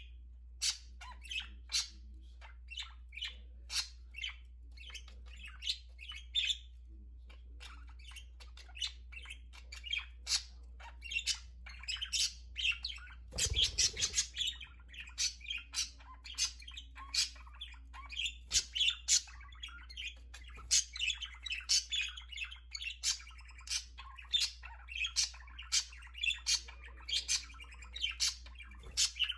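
Pet budgerigars chirping and chattering with a constant stream of short, sharp chirps and squawks, with a brief louder rustle about halfway through. A steady low hum sits underneath.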